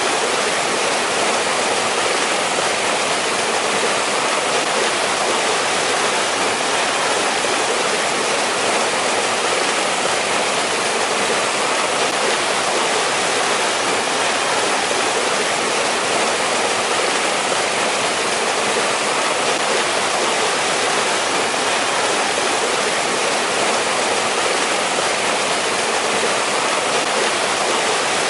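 Mountain valley stream running over rocks in winter: a steady, even rush of flowing water.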